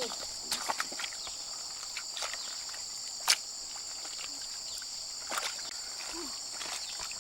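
Steady high-pitched drone of insects, with scattered light knocks and clicks and one sharp click about three seconds in.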